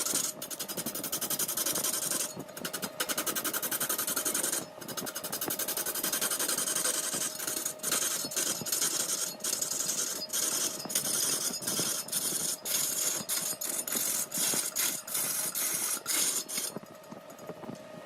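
Large woodworking lathe turning a mahogany blank while a cutting tool scrapes the spinning wood: a dense, hissing scrape with many short breaks over a steady hum from the machine, easing off near the end.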